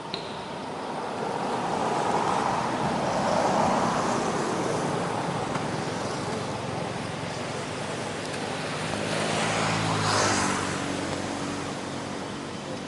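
Road traffic passing: one vehicle swells and fades over the first few seconds, and a second passes about ten seconds in with a steady engine note.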